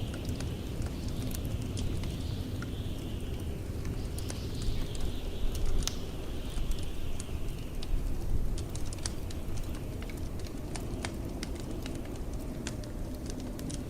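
Crackling fireplace with scattered sharp pops and snaps, over the steady low rumble of blizzard wind. Several high, hazy whistles of wind slide downward in the first half.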